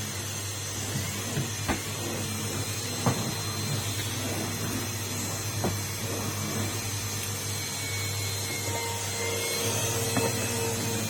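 Numatic Henry cylinder vacuum cleaner running steadily, a low hum with a high whine over it, with sharp clicks and knocks from the cleaning tool now and then. Its tone changes a little near the end.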